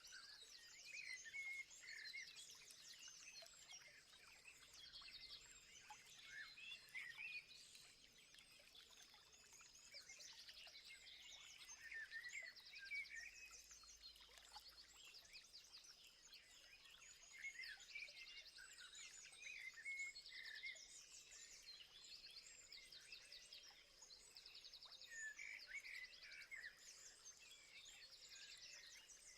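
Several wild birds singing and calling at once, a faint, continuous mix of chirps and rapid trills, over a steady high tone.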